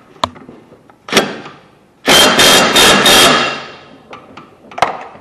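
Impact wrench with a 15/16 socket hammering a mower blade nut tight on the deck spindle, in a burst of about a second made of four quick pulses, about two seconds in. Light metal clicks of the socket on the nut come before and after it.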